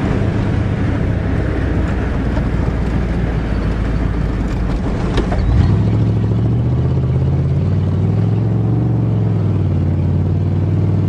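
1988 Chevrolet pickup truck's engine running under load while driving over rough ground. A sharp clunk sounds about five seconds in, and the engine note then climbs to a higher, steadier pitch.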